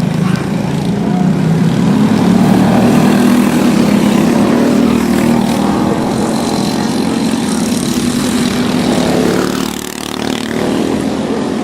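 Racing karts' single-cylinder four-stroke Briggs & Stratton Animal engines running hard at speed. The sound swells louder a couple of seconds in and dips briefly near the end.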